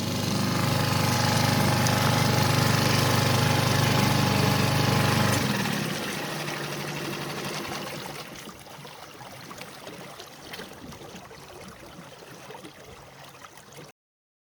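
Small outboard motor running steadily, then shut off about five and a half seconds in, leaving quieter water sounds around the hull that fade until the sound ends abruptly.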